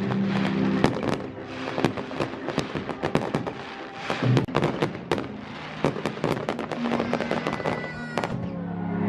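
Fireworks going off in rapid succession, many sharp bangs and crackles, with music playing under them.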